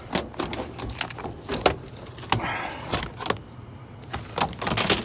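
A string of sharp clicks and knocks, with a short scraping rustle about halfway through: a return-air filter and its grille being handled and pulled out.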